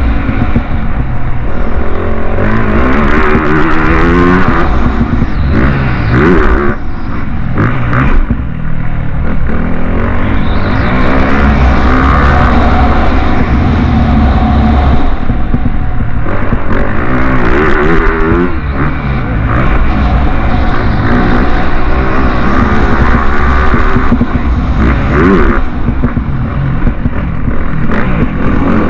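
Motocross bike engines at racing speed, revving up through the gears again and again with the pitch rising and dropping back on each shift. Loud and continuous.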